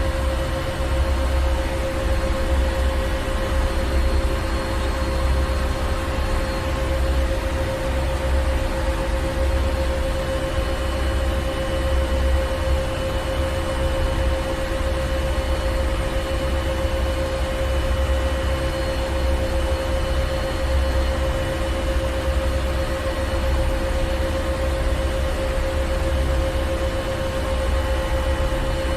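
Ship engine room machinery running steadily: a heavy low rumble under a constant mid-pitched hum and a broad hiss, with no change throughout.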